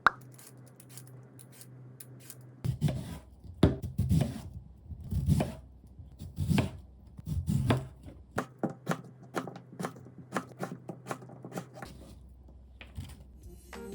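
Kitchen knife cutting food on a cutting board: a run of separate knocks, heavier ones about once a second, then lighter, quicker cuts.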